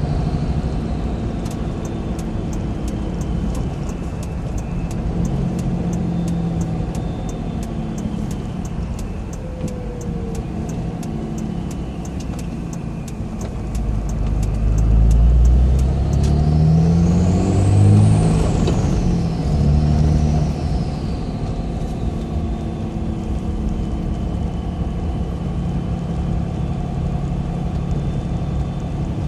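Cummins turbo-diesel of a 2006 Dodge Ram Mega Cab running while driving, heard from inside the cab, with an aftermarket Spectre intake fitted. About fourteen seconds in the engine pulls hard under acceleration and the turbo whistle rises to a high pitch, peaks, falls, and rises briefly once more before the engine settles back to a steady cruise. A faint regular ticking runs through the first half.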